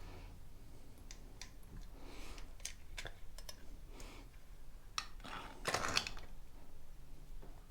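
Light clicks and small rattles of hand work on small parts, with a louder clatter about six seconds in.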